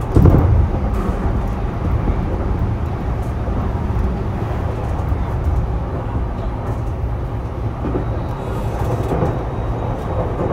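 Running noise of a Sotetsu 12000 series electric train, heard inside a motor car: a steady low rumble of wheels on rail, with a heavy thump in the first half-second.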